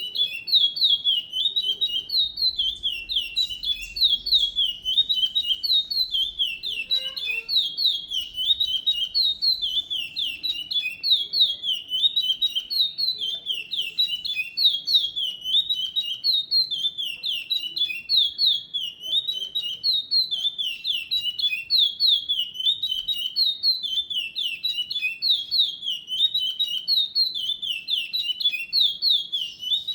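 A songbird singing without a break: a fast, rolling run of short down-slurred whistled notes, repeated in quick phrases several times a second.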